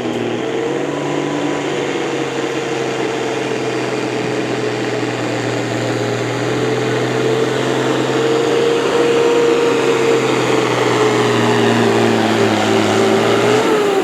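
Pulling vehicle's engine at full throttle during a hook, a steady high-revving note that grows louder about halfway through and changes pitch right at the end as the engine comes off.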